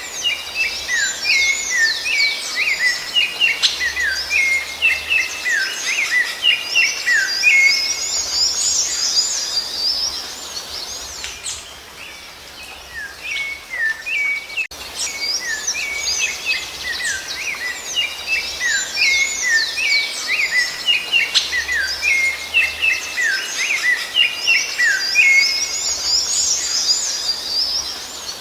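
Songbird singing a fast, continuous run of short chirps and whistled slurs, high-pitched, with a dip in the singing around 12 seconds in. The same stretch of song repeats from about halfway through, as a looped recording does.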